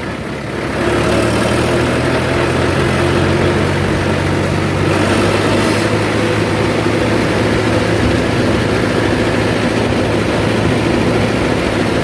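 Tractor's diesel engine running steadily under way, pulling along; it gets louder about a second in as it is given throttle.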